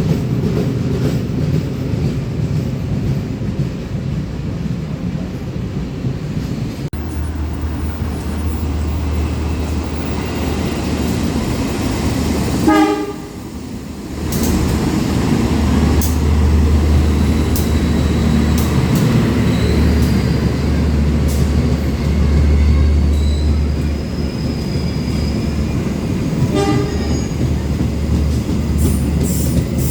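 Train running through a railway station with a steady rumble. A short horn toot sounds about halfway through and another near the end.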